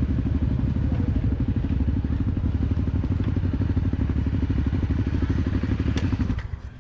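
Dirt bike engine running steadily with even, rapid exhaust pulses, then cut off suddenly near the end as it is switched off.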